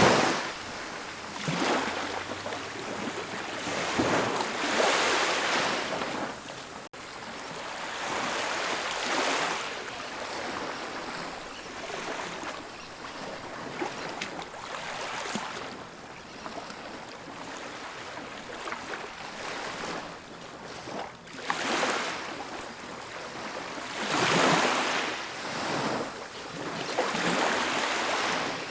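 Ocean surf breaking and washing up a beach, swelling and ebbing every few seconds, with the strongest surges about four and about twenty-four seconds in.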